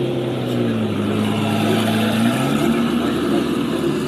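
Ferrari 512 TR's flat-twelve engine running at low revs as the car pulls away slowly. The note dips slightly about a second in and rises again a little after two seconds.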